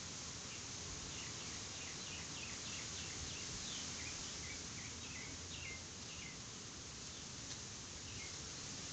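Faint high bird chirps, short falling notes coming a few at a time in irregular runs, over a steady hiss.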